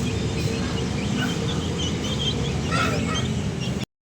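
Birds calling in many short chirps over a steady low rumble; the sound cuts off abruptly near the end.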